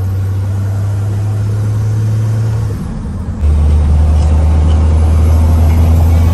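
Cummins diesel truck engine droning steadily under way, a deep hum. About three seconds in the note dips briefly, then settles lower in pitch and louder.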